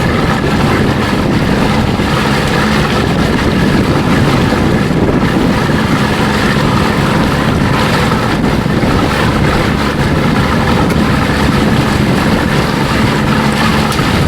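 1992 Johnson 60 hp two-stroke outboard motor running steadily at low speed, with wind on the microphone.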